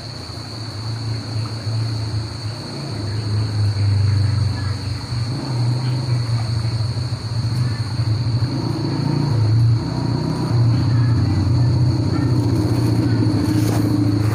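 Crickets chirring in a steady high drone over a low, wavering motor-like rumble that grows louder through the second half.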